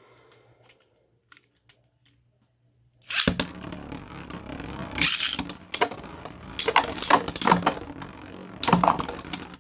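Two 3D-printed Beyblade spinning tops launched into a stadium about three seconds in, then spinning and clashing against each other in repeated sharp hits.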